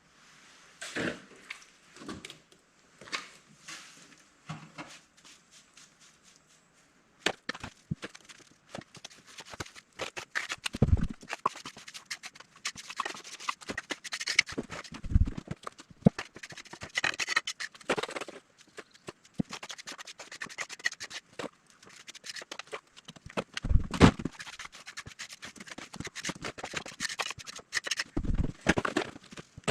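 Hand work with tools and materials: irregular tapping, knocking and scraping, sparse at first and nearly continuous from about seven seconds in, with a few heavier thumps.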